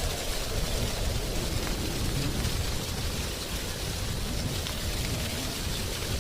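Wind blowing through tree leaves: a steady, continuous rustling rush with a low rumble underneath.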